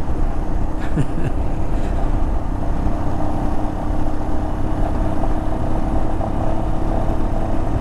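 Royal Enfield Himalayan single-cylinder motorcycle engine running steadily, heard from the rider's position with dense low wind rumble on the microphone.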